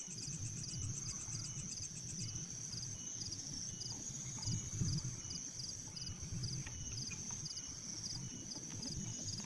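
Insects chirping: a steady high-pitched buzz with regular short chirps about twice a second, and a faster pulsing trill that stops about two seconds in, over a low rumbling background noise.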